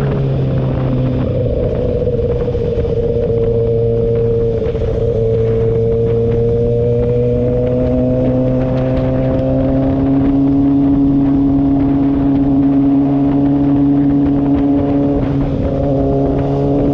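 Kawasaki ZX-6R's inline-four engine running at a steady cruise, heard on board, its note drifting slowly up and down, over steady wind rush.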